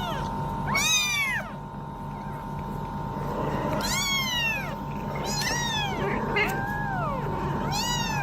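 A cat meowing repeatedly, about five separate meows that each rise and fall in pitch, over a steady background hum.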